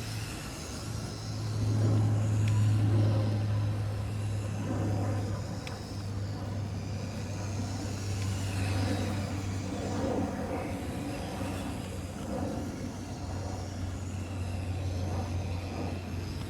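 Motorized LEGO Technic McLaren F1 car driving, its BuWizz electric motor and gearbox running with a steady low hum that swells loudest a couple of seconds in.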